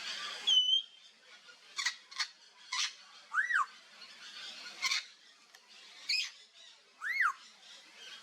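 Timneh grey parrot's beak cracking and gnawing a wooden branch: sharp, irregular cracks and snaps. Short whistles that rise and fall come about every three to four seconds between them.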